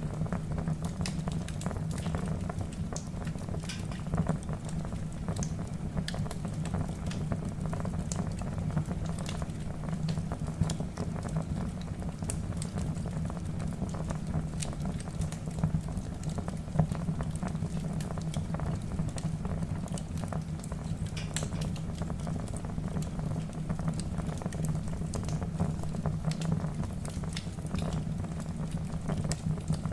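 Wood fire in a fireplace crackling: frequent irregular sharp pops from the burning logs over a steady low rush of flame.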